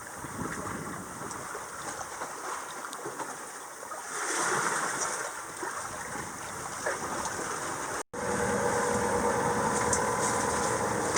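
Sea water washing and gurgling along a sailboat's hull in light wind, swelling briefly about four seconds in. After a sudden cut about eight seconds in, a steady motor drone with a low hum takes over.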